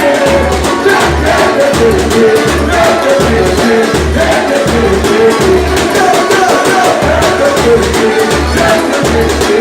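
Brazilian batucada percussion group playing, with deep bass-drum strokes about twice a second under fast shaker and snare strokes, and voices singing over the drumming.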